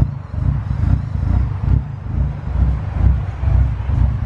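Low, uneven rumble of a car engine running close by.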